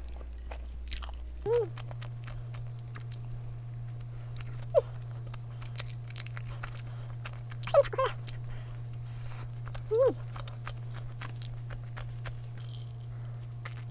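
A person chewing a chocolate-cream doughnut close to the microphone, with many small wet clicks and smacks. Four or five short hummed "mm" sounds of enjoyment come between bites.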